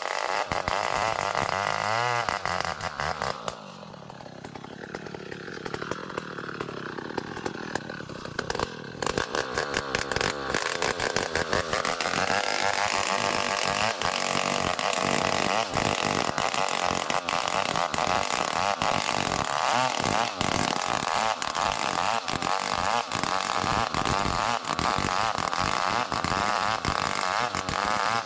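Chainsaw sawing ulin (Borneo ironwood) logs into beams. It runs loud, eases off for a few seconds about three seconds in, then revs back up with a rising whine and runs at full speed again.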